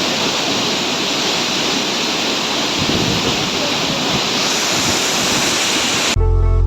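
Kanchendzonga Falls' water pouring down, a loud, steady rushing noise. Just before the end it cuts off abruptly and music starts.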